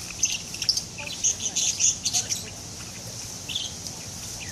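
Small birds chirping: a flurry of short, high notes in the first two and a half seconds, then a single chirp later on.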